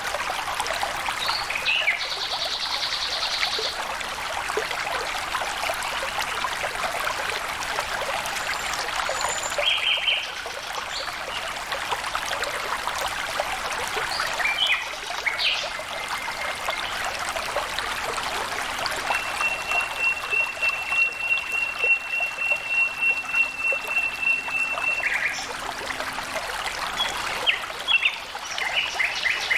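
Stream water trickling and flowing steadily, with birds calling over it: scattered short chirps and, about two-thirds of the way through, one long, even high trill lasting about six seconds.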